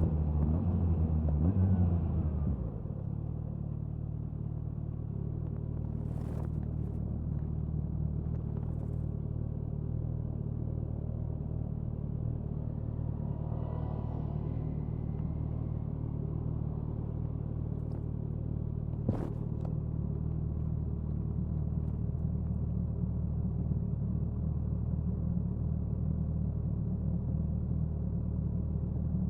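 Suzuki Hayabusa's inline-four engine, heard from near the exhaust. The revs and loudness fall over the first two seconds or so, then settle into a steady, even low engine note at low revs. Two brief sharp clicks come partway through.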